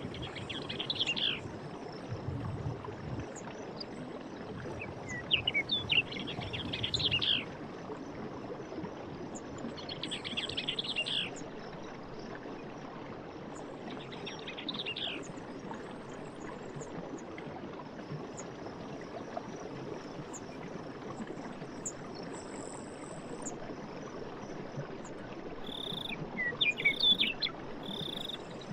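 Forest ambience: bursts of bird calls every few seconds over a steady background hiss, with a few short, high insect-like chirps. A couple of seconds before the end, an evenly repeated single-note call begins, about once a second.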